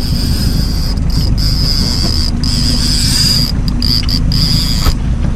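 Boat motor running steadily under way, with a thin, high-pitched whine that breaks off a few times.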